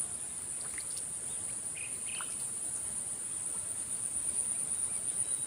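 Insects trilling as one steady, unbroken, high-pitched drone.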